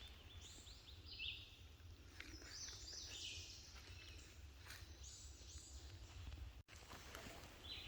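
Faint birdsong in woodland: short, high chirping phrases repeated every second or so.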